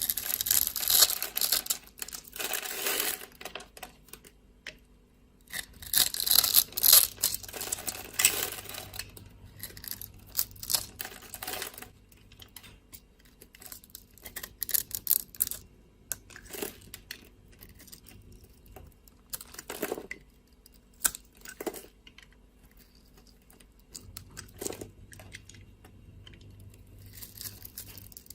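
A knife cutting into a bar of dry soap, crackly and crunchy: two longer spells of cutting in the first nine seconds or so, then shorter, scattered cuts and clicks.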